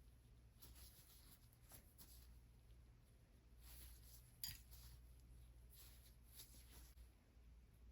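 Faint soft rubbing and swishing of hands massaging bare feet, in irregular strokes, with one light click about halfway through.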